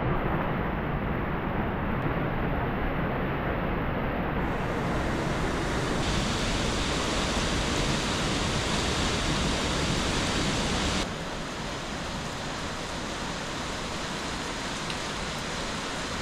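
Waterfall, a steady rush of falling water. It changes in tone a few times and drops a little quieter about 11 seconds in.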